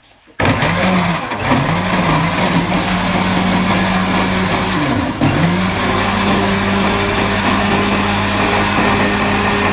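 Electric blender motor running at full speed, puréeing a batch of cooked tomatoes, onion and cashew nuts into a sauce. It starts about half a second in and runs steadily, its pitch sagging briefly a few times, most deeply about five seconds in, before it cuts off.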